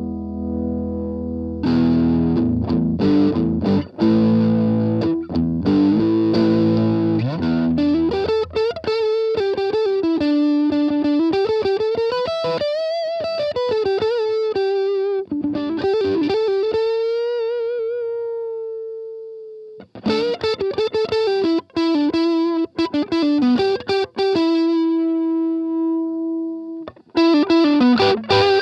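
Electric guitar, a Gibson SG Special with '57 Classic humbuckers, played through an MXR Custom Badass Modified O.D. overdrive pedal. A ringing chord gives way to low chugging riffs, then a lead line with string bends and vibrato ends in a long held note that fades out. Further picked riffs and a held note follow.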